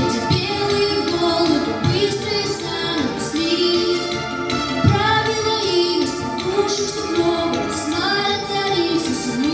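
A girl singing a song over instrumental accompaniment, with the melody held in long, bending notes.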